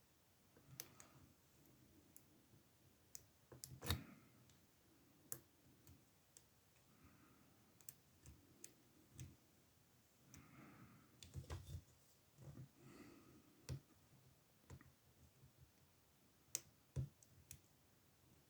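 Faint, irregular clicks and light scraping of a lock pick and tension wrench working the pin stack of an older Ruko oval cylinder in a brass and steel padlock, with a sharper click about 4 seconds in and another near the end.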